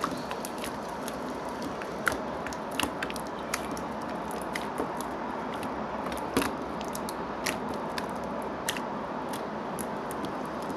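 Clear slime being squeezed and worked by hand, giving irregular sharp clicks and pops from trapped air over a steady hiss.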